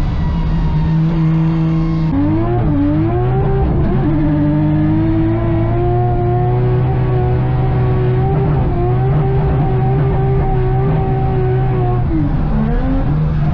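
Pro drift car's engine held at high revs, its pitch dropping and climbing back about two seconds in, again around four seconds, and near the end.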